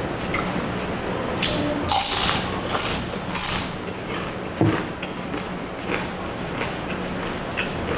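Close-up eating sounds: a man biting and chewing a crispy fried lumpia spring roll, with loud crunches between about two and three and a half seconds in and wet chewing clicks throughout, over a steady low hum.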